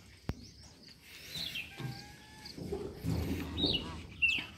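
Birds chirping in short calls now and then, with a sharp click about a third of a second in and a low rumbling noise in the second half.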